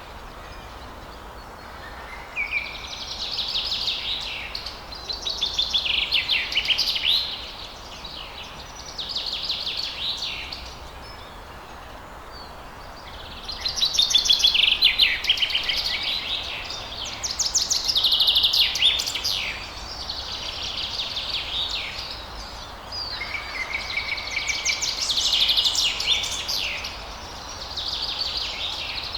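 Songbirds singing at dawn: rapid, high chattering trills in phrases a couple of seconds long, repeated with short pauses, over a steady background hiss.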